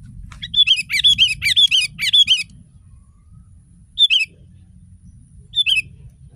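Sooty-headed bulbul (kutilang) calling: a quick run of short, falling chattering notes lasting about two seconds, then two brief bursts of the same notes about four and five and a half seconds in, over a faint low hum.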